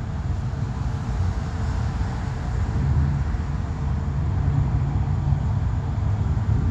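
Steady low rumble of vehicle noise, like a car on the road, with a faint steady hum.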